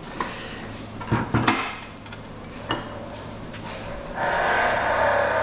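Metal scrap parts knocking and clattering as they are handled, with a cluster of sharp knocks about a second in and another near three seconds. About four seconds in, a steady, louder rushing noise begins.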